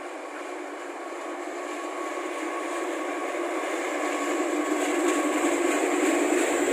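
CC 206 diesel-electric locomotive hauling a passenger train, approaching and passing close by. Its engine and the wheels on the rails grow steadily louder as it draws level.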